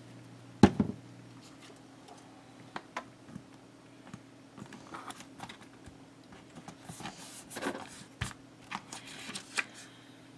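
Paper stickers and card being handled: scattered light taps and rustles, with a sharper knock under a second in and a busier stretch of rustling near the end.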